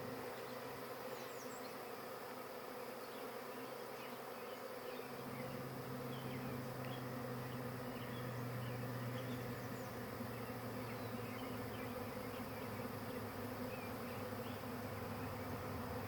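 Large honey bee swarm buzzing: a steady, dense hum of many bees, with a stronger low drone from about five seconds in.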